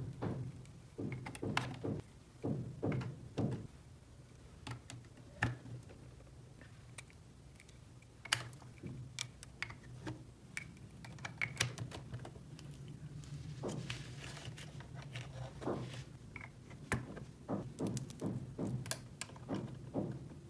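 Small plastic toy pieces handled, tapping and clicking against each other irregularly, over a low steady hum.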